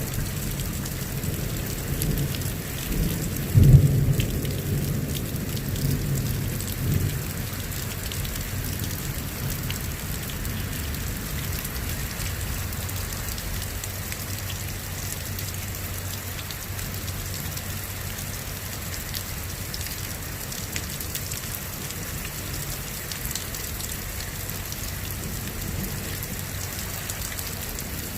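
Rain falling steadily, with a clap of thunder about four seconds in that rumbles on for about three seconds before the rain carries on alone.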